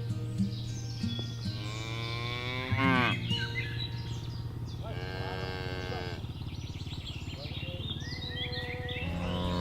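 Cattle mooing: long, drawn-out moos about a second and a half in, again around five seconds in, and another beginning near the end.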